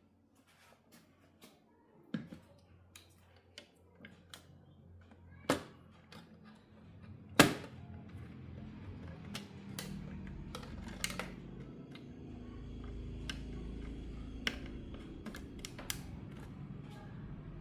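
Irregular clicks and knocks, like small parts and tools being handled, over a low steady hum that starts about halfway through. The sharpest knock comes about seven seconds in.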